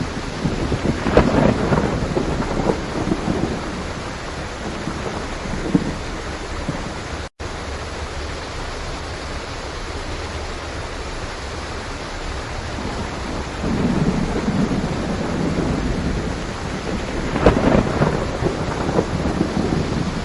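Steady heavy rain with rolling thunder, a rumble swelling in about a second in and a longer one from about two-thirds of the way through. The sound cuts out for an instant about seven seconds in.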